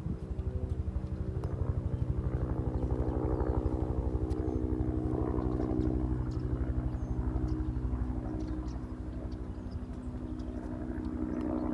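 A small engine running steadily with a fast, even pulse, easing off slightly in pitch and level over the last few seconds.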